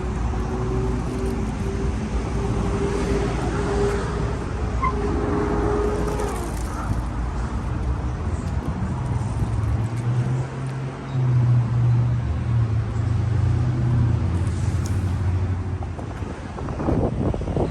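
Vehicle engines and traffic running: a steady mid-pitched drone for the first several seconds, then a louder low engine hum from about nine seconds in, with a few knocks near the end.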